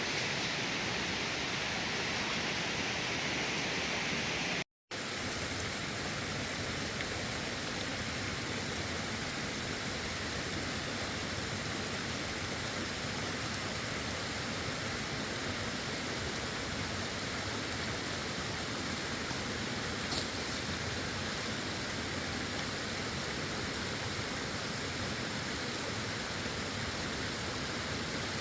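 Steady rushing of flowing water. It cuts out for a split second about five seconds in, then carries on with a little less hiss.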